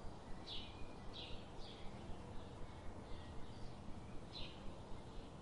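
A bird calling in short, high chirps, repeated one or two times a second at uneven intervals over a faint steady background of outdoor noise.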